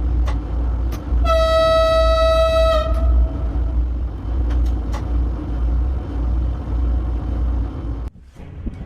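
Train horn sounding one steady blast of about a second and a half over the heavy low rumble of a passing train. The rumble cuts off about eight seconds in.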